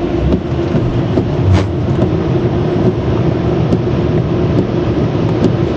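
Automatic car wash machinery heard from inside the car: a steady loud rushing noise with a constant hum underneath.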